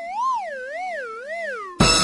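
Cartoon sound effect: a wavering electronic tone sliding down in pitch, wobbling about twice a second, like the classic falling whistle. Near the end it breaks off into a sudden loud noisy hit.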